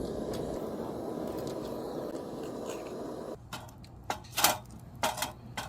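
Steady rustling noise, then after an abrupt change a few short knocks and clatters, like cookware and containers being handled.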